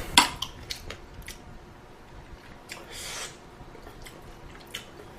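Quiet eating sounds from a pot of ramen: a sharp utensil click just after the start, a few lighter clicks, and a brief soft wet slurping sound about three seconds in.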